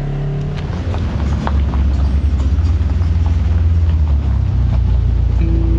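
A motor vehicle's engine running close by, a low drone that grows louder over the first few seconds, with scattered short clicks above it. Music comes in near the end.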